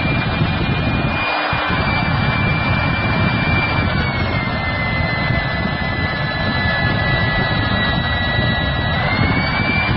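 Hougen magnetic drill press motor running under load as it bores through 1/4-inch steel plate: a steady loud whine over cutting noise. The whine dips slightly in pitch about four seconds in and rises again near the end.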